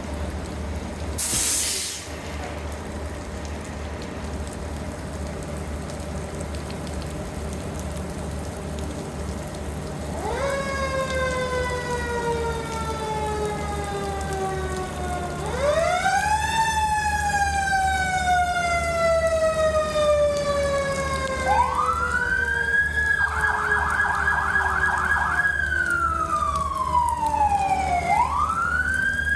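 Fire engine's diesel engine running steadily, with a short hiss of air about two seconds in. About ten seconds in, its siren starts a wail that rises quickly and slowly falls, repeating, and switches briefly to a fast warble before going back to the wail.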